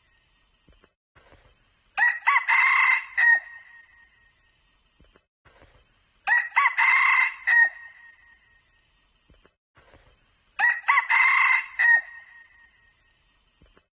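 Red junglefowl rooster crowing: three short crows about four seconds apart, each clear and ringing and about a second and a half long.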